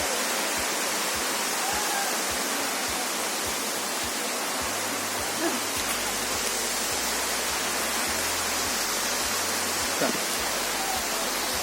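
Waterfall rushing steadily: an even hiss of falling water, with a faint, brief voice or two in the background.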